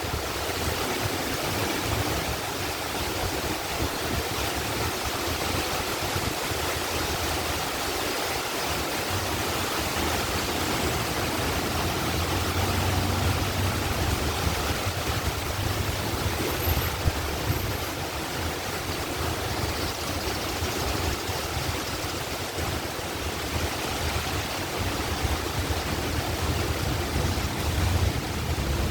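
Heavy rain pouring down steadily, with the low engine rumble of track maintenance vehicles under it, stronger around the middle and again near the end.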